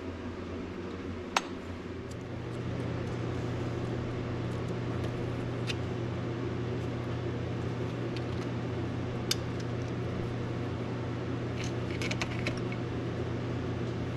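A steady mechanical hum that steps up in loudness about two seconds in, as if a motor or appliance has switched on. A few sharp hard clicks fall over it, and a quick run of small clinks comes near the end.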